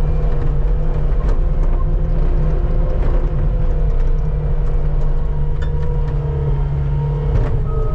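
Skid steer engine running steadily under load, with a few short knocks and clicks over it: a bucket scraping snow from pavement.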